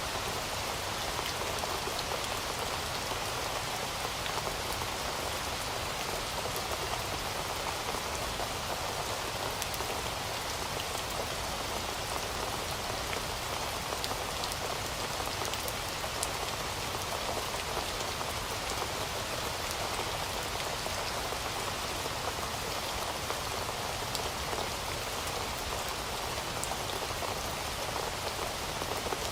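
Heavy rain falling steadily, a dense even hiss of drops hitting a surface with fine individual drop ticks and no let-up.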